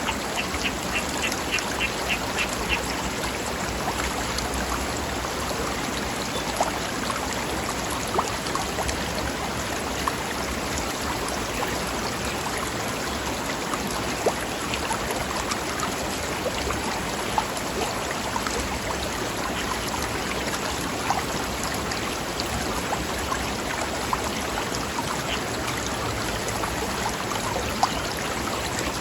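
Stream babbling over rocks: a steady rush of water with small splashes. In the first few seconds a bird gives a quick run of about eight short, evenly spaced calls.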